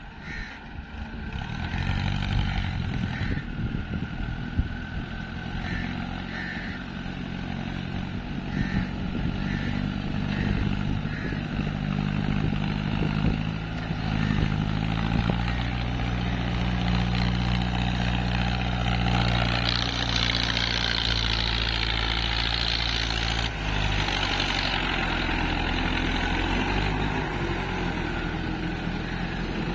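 Heavy diesel engine running under load, its pitch rising about halfway through and holding there, with a stretch of hiss a few seconds later.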